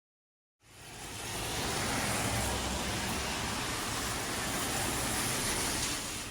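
Steady hiss of heavy rain, a dense even wash with a low rumble beneath. It fades in over about a second shortly after the start and stops abruptly just after the end.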